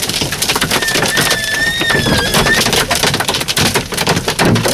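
Large hailstones, golf-ball size and bigger, pounding on a truck in a dense, rapid clatter of hard knocks. A thin, slightly wavering high tone sounds through the middle.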